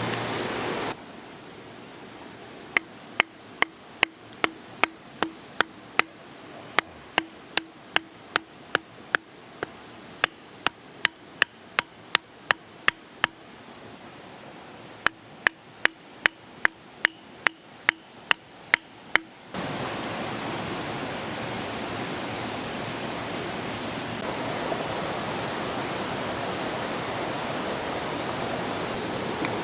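Sharp knocks repeating evenly, about two to three a second, with a short pause partway; then they stop suddenly and the steady rush of a river takes over.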